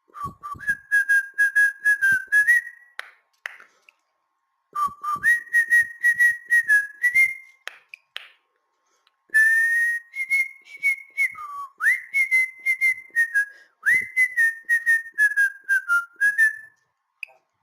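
Cockatiel whistling in three phrases of short chirpy notes that step up and down in pitch, with short pauses between the phrases.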